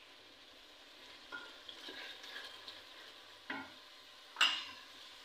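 Tomato-onion masala sizzling softly in a metal kadhai as dry spices go in, with a few light knocks of utensils against the pan, the sharpest just after four seconds in.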